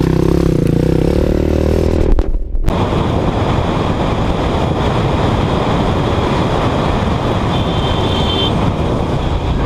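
Motorcycle engine running steadily, cut off briefly about two seconds in, then a steady rush of wind noise on the helmet camera's microphone as the motorcycle rides at speed.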